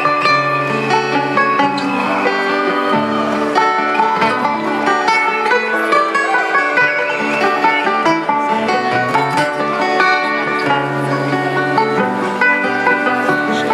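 Live acoustic string band playing an instrumental passage, with picked banjo and strummed acoustic guitar.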